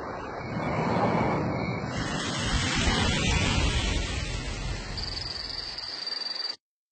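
Steady rushing noise, growing louder about two seconds in, with a faint high whine near the end; it cuts off abruptly.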